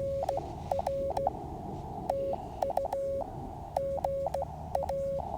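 Morse code (CW) on a QCX mini QRP transceiver: a single steady tone keyed on and off in short and long elements, over a steady band of receiver hiss that ducks while the tone sounds.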